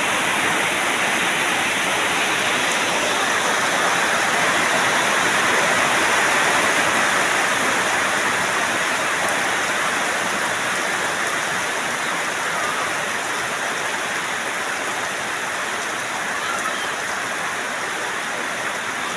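Heavy rain pouring down steadily, a dense even hiss, a little louder around the middle.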